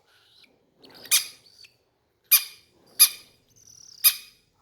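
Small pet parrot giving four short, sharp squeaky calls about a second apart.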